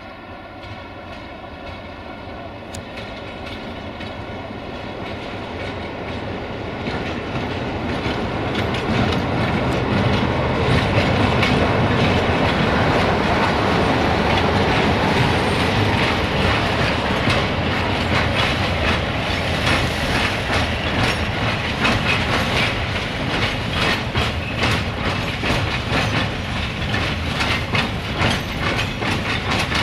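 A train passes. A steady engine hum grows louder over the first ten seconds or so, then the wheels clatter rapidly over the rail joints as the wagons roll by.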